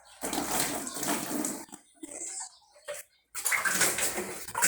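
Water running from a tap and splashing as things are washed under it. It comes in stretches that break off abruptly, with a brief silence a little after three seconds before it starts again.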